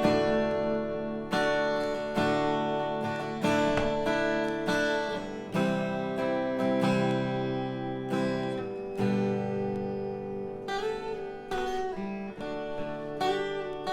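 Instrumental music: acoustic guitar strumming chords, each chord ringing out and fading before the next, with no singing.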